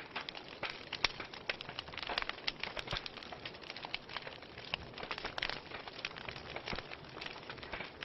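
Wood fire burning in a fireplace, crackling with frequent sharp, irregular pops over a steady low hiss.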